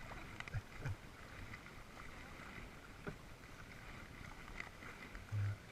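Kayak on flat water: paddle dipping and water trickling off the blade, faint, with a few light knocks.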